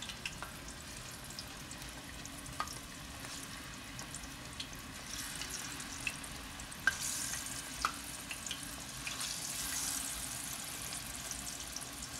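Sliced plantains frying in hot coconut oil in a frying pan: a steady sizzle with a few sharp pops, growing louder about halfway through as more slices go in.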